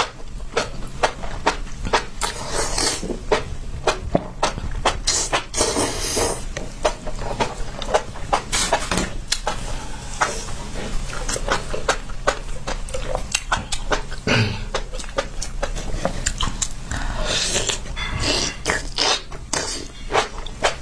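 Close-miked chewing of spicy enoki mushrooms: a dense, irregular run of short wet mouth clicks and smacks, with a few longer hissy stretches.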